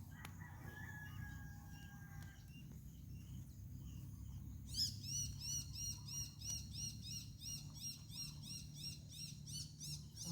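A bird calling a long run of evenly repeated high chirps, about three a second, starting about halfway through, over a faint steady low hum.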